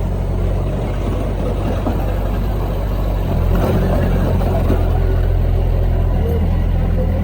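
Heavy diesel engine of earthmoving machinery running steadily, growing louder about three seconds in.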